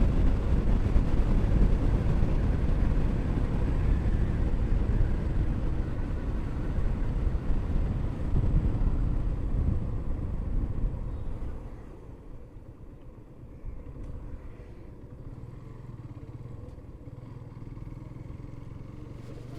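Motorcycle running on the road, its engine and road noise as heard from the riding bike. About twelve seconds in the sound drops clearly quieter, leaving a steadier, softer engine hum.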